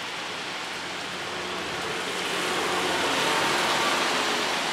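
Steady rain falling, an even hiss that swells slightly from about two seconds in, with a faint low hum beneath it.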